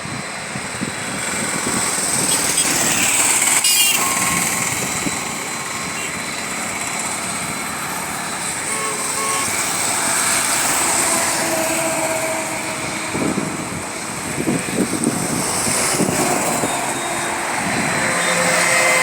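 Steady engine noise that swells and eases, with a high whine running through it.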